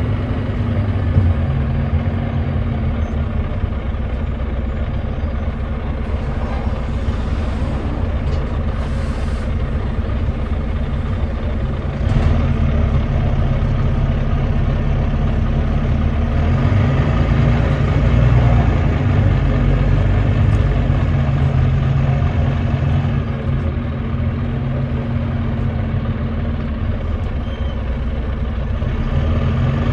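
Volvo D9B 9.3-litre six-cylinder diesel of a Volvo B9TL double-decker bus, heard from on board, running under way with a deep, steady drone. It gets louder about twelve seconds in. The engine is the one the uploader calls misfiring and thrashed.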